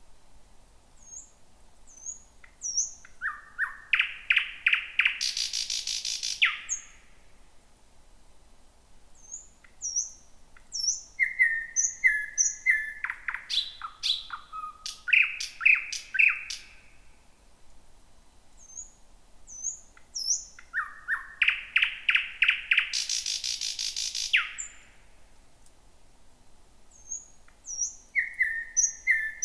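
Thrush nightingale singing: song phrases a few seconds long with pauses between, each built from high thin notes, fast runs of repeated notes and, in two of the phrases, a loud harsh rattle.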